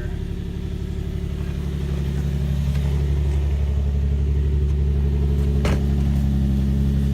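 2003 Nissan 350Z's VQ35DE V6 idling just after a cold start, breathing through 370Z headers, resonated test pipes and a Nismo exhaust: a steady low exhaust note that grows slightly louder about two seconds in. A single sharp click sounds late on.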